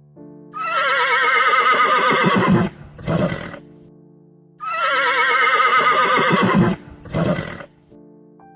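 Horse whinnying twice: each time a long quavering call of about two seconds that sinks in pitch at the end, followed by a short second call, over background music.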